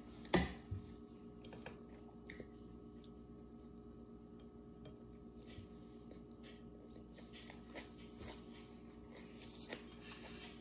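Faint close-up chewing and mouth sounds of a person eating rice and food with her fingers, with scattered small clicks and soft smacking. A sharp knock about half a second in is the loudest sound, over a faint steady hum.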